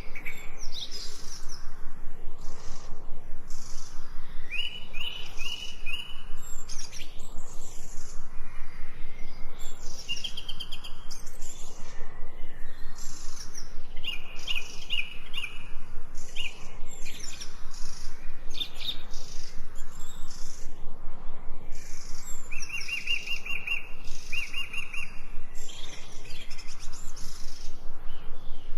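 Several songbirds singing and chirping together in forest ambience, with short quick calls throughout and a repeated phrase of four or five rapid notes that returns several times.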